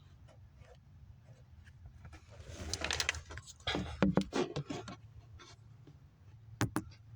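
Scraping and clicking handling noises over a low steady hum, loudest in a cluster about halfway through, with two sharp clicks near the end.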